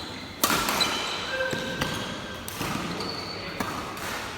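Badminton rally: sharp racket strikes on the shuttlecock, the first about half a second in and more later, with short shoe squeaks on the court floor, echoing in a large hall.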